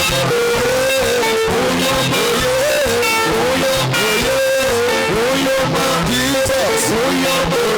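Instrumental worship music: a guitar plays a bending melody line over a bass guitar accompaniment, steady and loud throughout.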